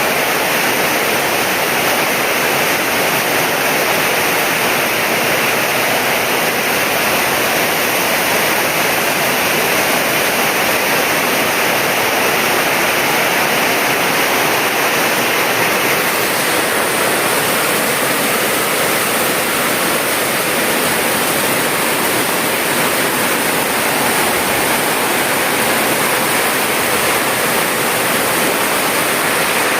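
Heavy downpour of rain: a loud, steady rush of falling water.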